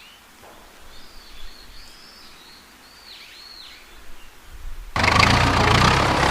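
Birds chirping, a few short curved calls over quiet outdoor background. About five seconds in, a much louder steady sound with a low hum starts abruptly.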